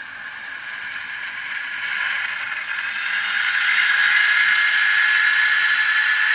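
Dynamic brake sound of an ESU LokSound Select decoder in an N-scale GE Tier 4 GEVO, played through the locomotive's tiny speaker: a blower hiss with a high, steady whine that swells over the first few seconds, then holds.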